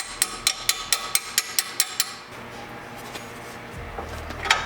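Hammer striking metal in a quick run of ringing blows, about four or five a second for two seconds, then a few more blows near the end.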